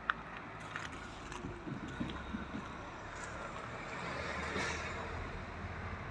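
Road traffic: a vehicle passing, its noise swelling to a peak about four and a half seconds in and then fading, over a steady low rumble. A few light clicks come near the start.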